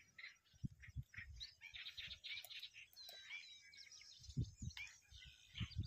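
Small birds chirping and calling: a faint scatter of short high chirps and quick gliding whistles, with a few low thumps now and then.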